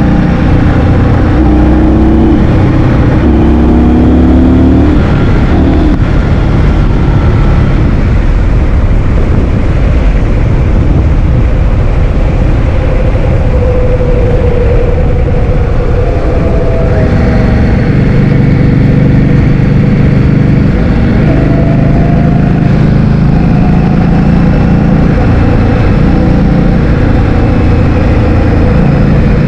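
Heavy wind noise buffeting the microphone on a moving scooter, a loud constant rumble. Under it an engine note steps up and down in pitch.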